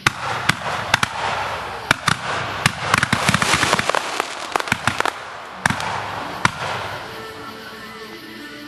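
Fireworks going off: a rapid string of sharp bangs with dense crackling, thickest about three to four seconds in, thinning to a few last reports and dying away after about six and a half seconds.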